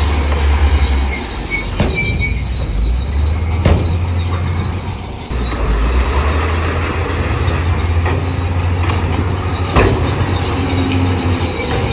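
Crawler bulldozer at work: a steady low diesel engine hum, with high metallic squealing and clatter from its steel tracks and a few sharp knocks.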